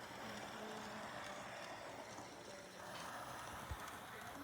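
Märklin Z scale Class 232 diesel locomotive model running on its track: a faint, steady whir from its small motor and running gear, with one low thump a little over three and a half seconds in.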